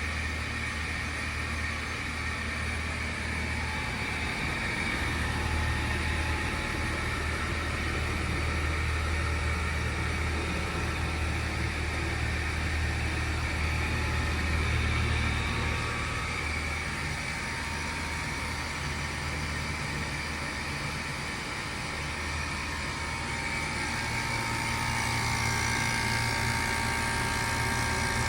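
1993 Mitsubishi Electric Kirigamine MUH-K223 air-conditioner outdoor unit running in cooling mode with its outer cover removed: a steady low compressor hum under fan noise, with a faint higher whine and gentle swells in level.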